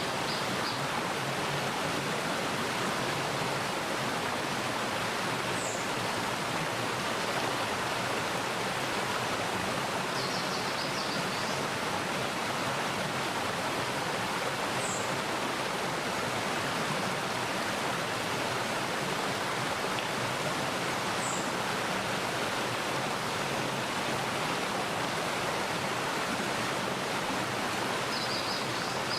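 Mountain valley stream flowing steadily, a constant rushing of water. Faint bird calls sound over it: a few single brief high chirps, and short twittering phrases about ten seconds in and again near the end.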